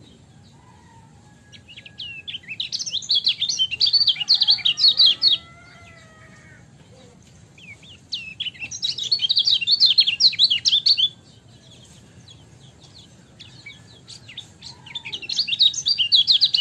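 Kecial kuning white-eye singing in three bouts of fast, high chirping a few seconds apart, with scattered single chirps in between.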